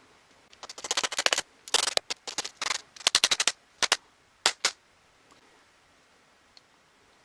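Impact driver's hammer mechanism rattling out rapid sharp blows in six short bursts, as the trigger is squeezed and let go.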